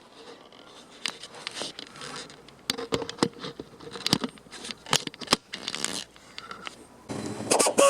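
Irregular clicks, taps and light scraping from hand work, with a denser noise building near the end.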